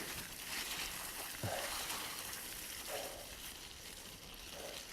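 Bicycle tyres rolling through wet slush, giving a steady crackly hiss.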